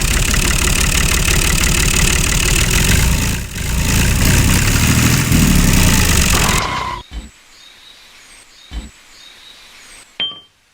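Engine running steadily and loud for about seven seconds, then cutting off suddenly. After that it is much quieter, with faint bird chirps and a couple of short thumps.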